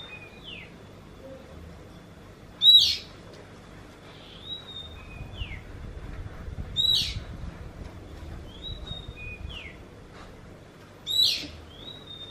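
Oriental magpie-robin (kacer) repeating one phrase three times, about four seconds apart. Each phrase is a loud sharp note followed by softer whistled notes ending in a short downward slur. Its song is known for sounding like a kitten's mew.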